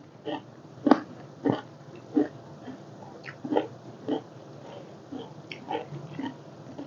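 Close-up eating sounds: a person chewing and smacking food, with irregular short wet clicks about once or twice a second.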